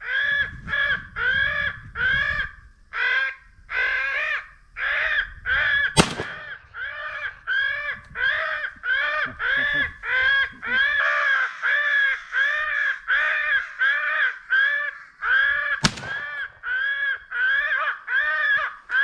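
Crows cawing in a rapid, steady series of about two caws a second. Two shotgun shots ring out over them, about six seconds in and near the end.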